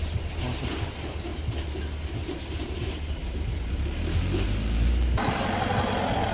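Heavy vehicle engine running with a deep low rumble that grows louder over about five seconds, then the sound changes abruptly to a brighter, noisier engine-and-road noise.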